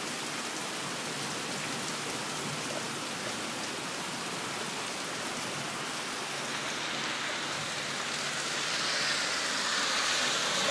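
Steady rain falling during a thunderstorm, an even hiss that grows a little louder over the last few seconds, with no thunder clap.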